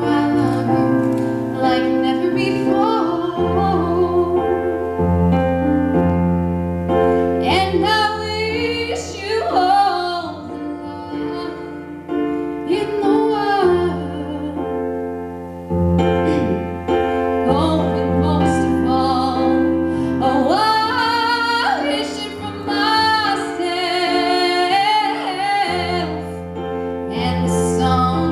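A female vocalist sings a song with piano accompaniment, her melody wavering on held notes over sustained low piano chords that change every couple of seconds.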